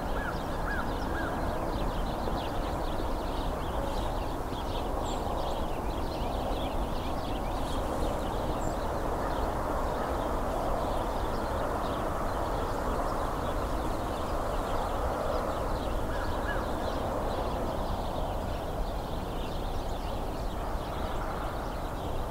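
A large flock of house sparrows chattering from dense cover, a steady mass of many overlapping short chirps.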